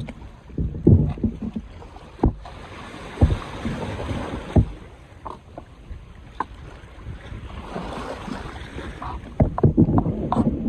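Wind buffeting the microphone over a rushing background, with scattered sharp knocks and clatter of things being handled.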